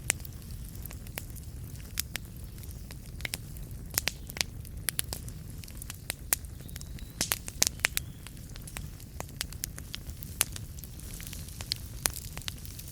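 Wood fire burning in a fireplace: a steady low rumble of flame with irregular sharp crackles and pops, thickest about seven to eight seconds in.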